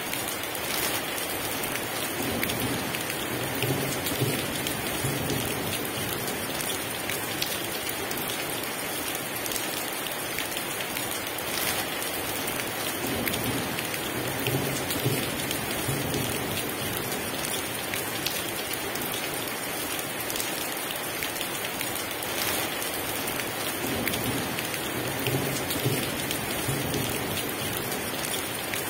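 Heavy rain falling steadily, with three low rolls of thunder: one a few seconds in, one around the middle and one near the end.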